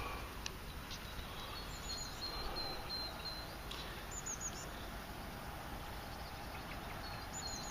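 A small bird chirping in short high notes, in a few phrases, over a steady outdoor hiss, with a few faint handling clicks.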